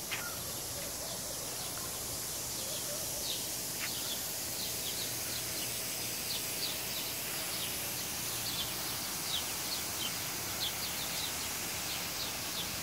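Small birds chirping, short high chirps repeating irregularly a few times a second, over a steady outdoor hiss.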